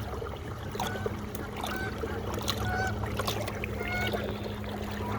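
Steady low hum of a Minn Kota 30 lb thrust electric trolling motor driving a kayak, with water noise, and about eight short honking calls from waterfowl scattered over it.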